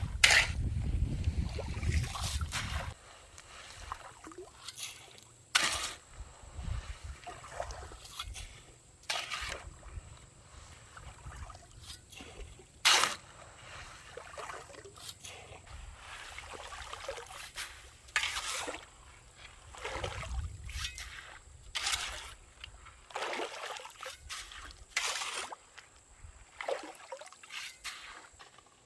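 Shallow stream water splashing and sloshing in short, irregular bursts, about a dozen over the stretch, with a low rumble in the first few seconds.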